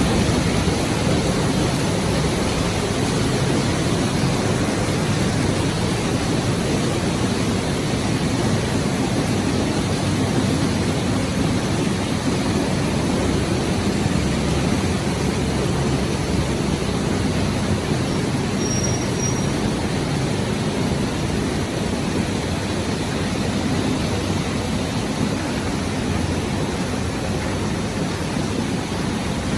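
Heavy rain pouring steadily, an even unbroken rush of noise.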